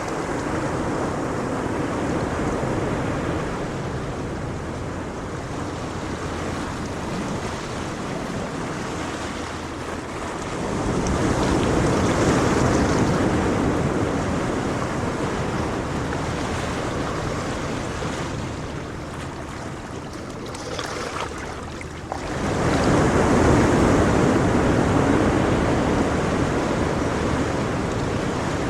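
Ocean waves washing on a shore in a steady surge, with two louder waves swelling in: one about ten seconds in and another, more suddenly, about twenty-two seconds in.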